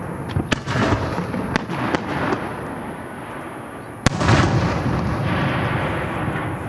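Aerial fireworks shells bursting. There are several sharp bangs in the first two seconds, then a louder single bang about four seconds in, followed by a rolling rumble.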